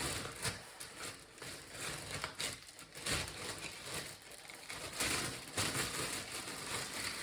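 Irregular light clicks, knocks and rustling of food preparation by hand.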